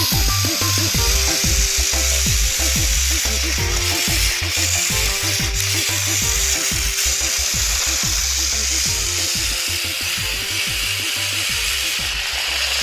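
Battery-powered Plarail toy train motors and plastic gearboxes whirring steadily, over background music.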